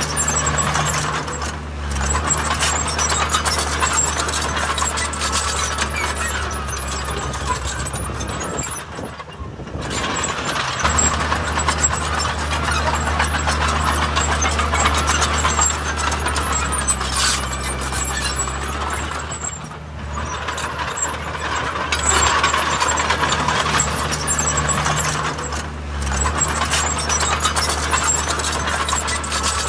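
Heavy diesel earthmoving machinery running under load, with continuous metallic clanking and rattling; the engine sound drops off briefly a few times and picks up again.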